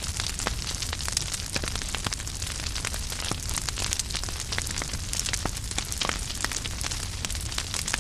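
Wood fire burning with steady hiss and a constant scatter of sharp crackles and pops, over a low rumble.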